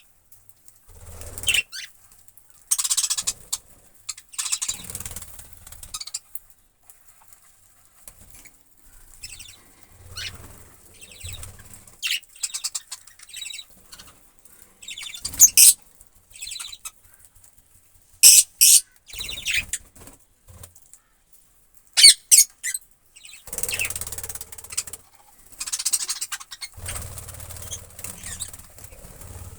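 Pet budgerigars chirping in scattered short, sharp calls, the loudest in the middle, with bursts of rustling and wing fluttering in between.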